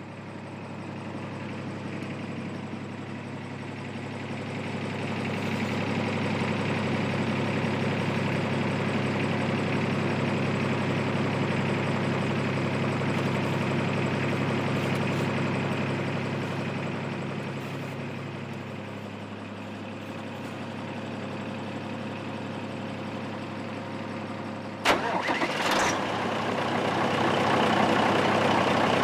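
An engine running steadily, its sound swelling over the first few seconds and easing later on. A sharp click comes about three-quarters of the way through, and after it the sound turns louder and noisier.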